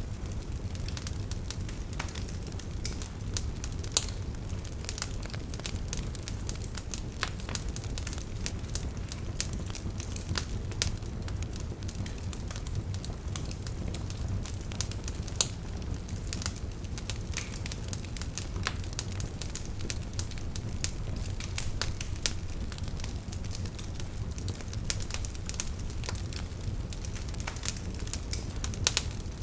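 Wood campfire burning with a steady low rush of flame and irregular crackles and pops from the firewood, a few sharper pops standing out.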